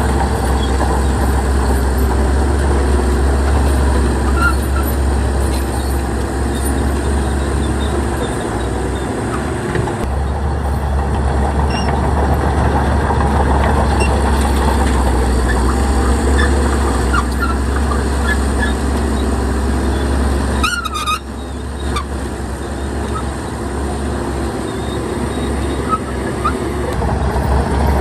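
Heavy earthmoving machinery's diesel engine running steadily under load, with a brief high squeal about three quarters of the way through.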